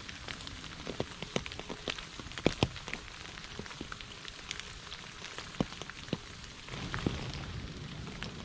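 Steady rain falling, with many separate drops striking a surface as sharp ticks over the hiss of rainfall. The rain thickens a little near the end.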